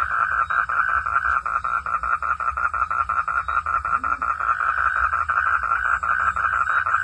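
Frogs calling in a fast, steady pulsed chorus, about seven pulses a second, over a low rumble.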